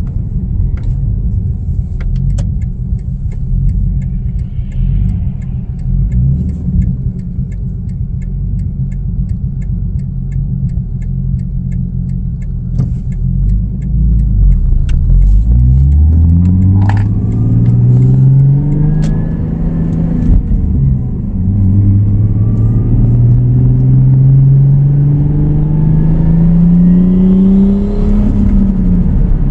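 Big-turbo 2JZ inline-six in a Lexus IS300, running at low, fairly steady revs at first, then accelerating. The revs climb, drop back at a gear change, and climb again before another shift near the end.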